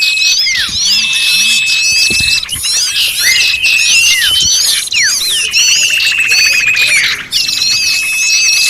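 A dense, noisy chorus of many small songbirds calling over each other: rapid hooked chirps, long level whistles and falling slurs. It is a bird-lure recording of agitated small birds, used to draw other small birds in. The sound dips briefly a little past seven seconds in.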